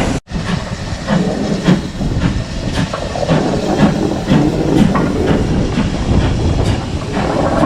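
Steam locomotive moving slowly, with steam hissing and a regular beat about twice a second.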